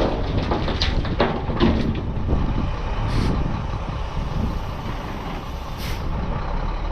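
Diesel engine of a CAT 279D compact track loader running steadily, with a few knocks in the first two seconds and two short hisses about three and six seconds in.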